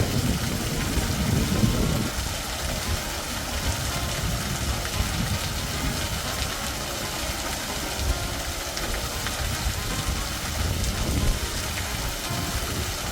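Artificial garden waterfall rushing steadily.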